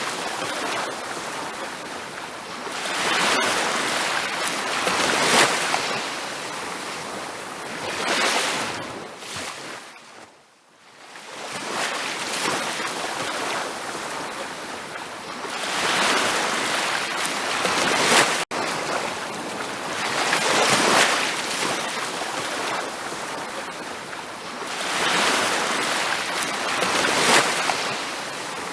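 Ocean waves breaking and washing up on a beach, swelling and ebbing every few seconds. The sound fades almost away for a moment about ten seconds in, then returns.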